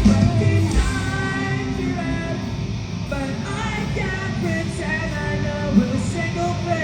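Rock band playing live through a festival PA: distorted electric guitars and singing, with heavy bass and drums that thin out about a second in.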